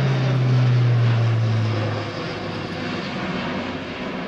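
Airbus A400M Atlas's four TP400-D6 turboprops droning in a flypast. The propeller hum falls in pitch as the aircraft passes, peaks about a second in, then fades.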